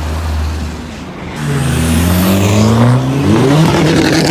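A car engine running, then revving hard from about a second and a half in, its pitch climbing steadily under full-throttle acceleration.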